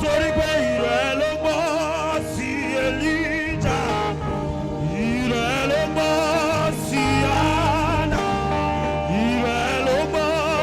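Gospel worship music: a saxophone plays a slow melody with wide vibrato over held keyboard chords and a deep bass line.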